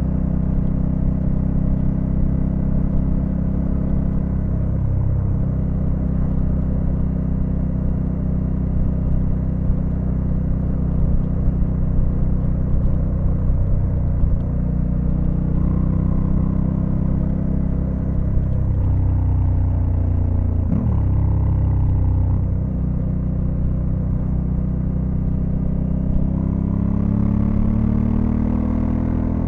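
Honda Africa Twin CRF1100L's 1084 cc parallel-twin engine running under way, at a steady pace for most of the time. About two-thirds of the way through its pitch drops and then jumps sharply, and near the end the revs climb steadily as it accelerates.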